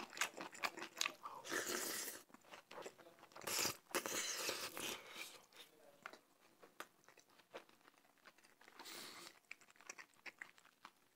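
Close-miked mouth sounds of eating jajangmyeon mixed with rice: wet chewing and smacking with small clicks, in several short spells.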